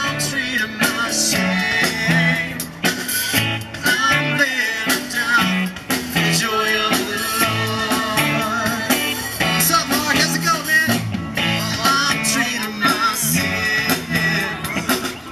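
Church worship band performing a song: singing over guitar with a steady beat.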